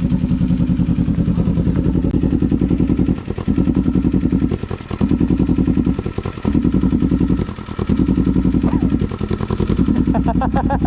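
Motorcycle engine just brought to life, idling with a fast, even exhaust beat that briefly drops away about five times, roughly every second and a half, as if stumbling.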